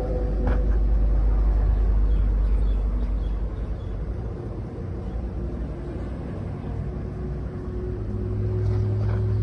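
Skoda Octavia engine running steadily, a low hum that grows a little stronger near the end, with a couple of faint clicks.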